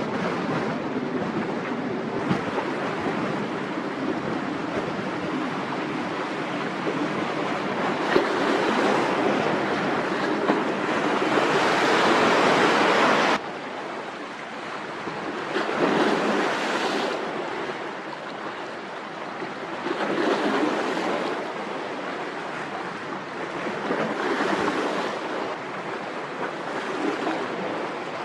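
Strong gusting wind buffeting the microphone over the wash of waves, rising and falling in surges; the loudest gust cuts off suddenly about halfway through.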